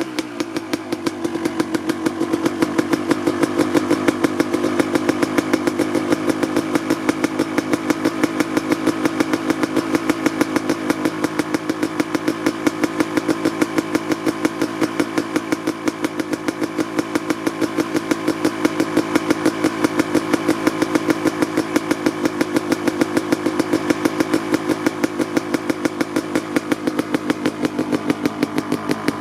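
Honda CR250R's single-cylinder two-stroke engine idling steadily with a fast, even firing beat while it warms up after a cold start.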